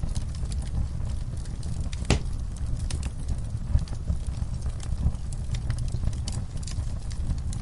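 Wood fire burning with a steady low rumble and scattered crackles and snaps, one louder pop about two seconds in.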